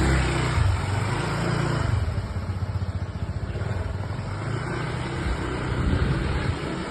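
Honda ADV160 motor scooter's single-cylinder engine running, strongest in the first couple of seconds.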